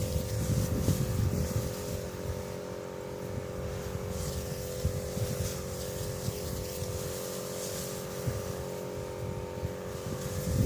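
An engine running steadily at an even pitch, with wind gusting on the microphone in the first second or so.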